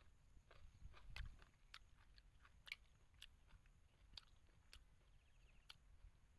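A person chewing a mouthful of stir-fried shrimp and vegetables: faint, with irregular crisp clicks of the bites.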